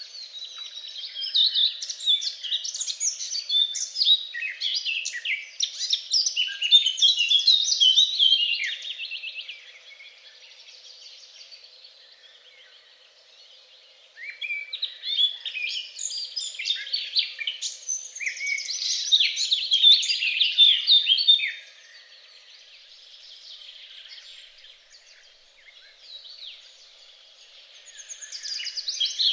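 A songbird singing long, fast, varied songs of rapid chirps and trills, in two bouts of about seven or eight seconds each with quieter pauses between, and a third song starting near the end.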